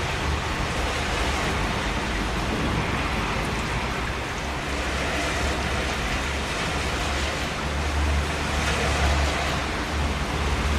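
Steady rain falling, an even dense hiss, with a low rumble underneath that grows stronger about eight seconds in.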